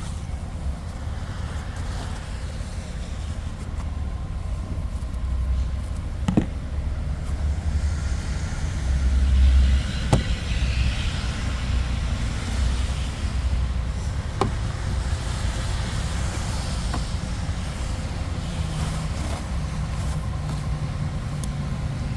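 Snow being cleared off a car, over a steady low rumble that swells briefly about ten seconds in, with a few sharp knocks and a short brushing sound.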